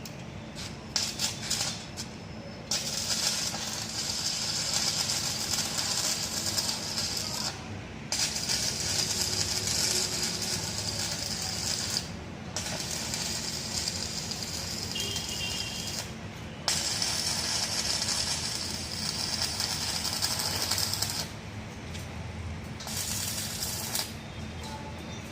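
Electric arc welding crackling and sizzling in runs of several seconds, with short breaks between runs, over a steady low hum.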